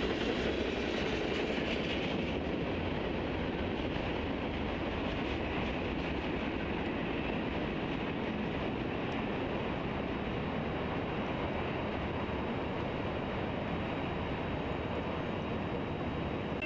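Freight train cars rolling past: a steady rumble of wheels on rail that eases a little in the first few seconds as the last cars go by, then settles into a steady wash of noise.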